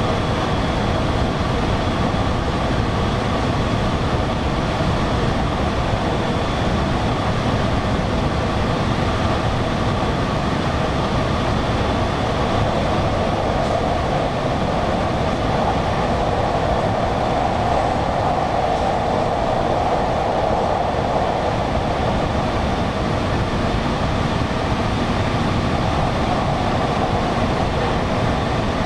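Steady running noise of an electric commuter train heard from inside the carriage as it travels between stations: an even rumble of wheels on rail with a faint steady whine over it.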